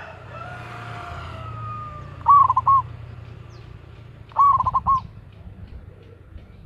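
Zebra dove (perkutut) cooing loudly: two short phrases of quick, rapid coo notes a couple of seconds apart. A rooster's crow trails off in the background during the first two seconds.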